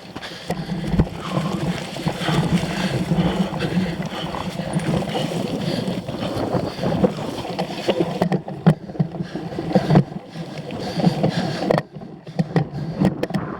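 Cyclocross bike ridden over rough off-road ground, heard from on the bike: a steady rumble of tyres and frame with constant rattling and clicking.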